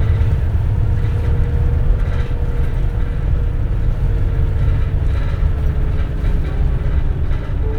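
Cabin sound of a 2004 CNG city bus under way: a steady low rumble from the natural-gas engine and road, with a faint whine and brief interior rattles around two and five seconds in.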